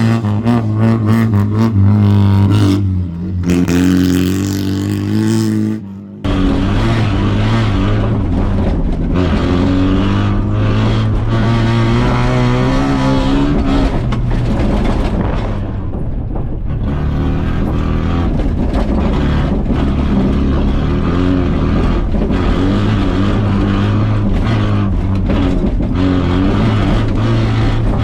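Rallycross cars' engines running hard, revving up and down through the gears. The sound dips and changes abruptly about six seconds in.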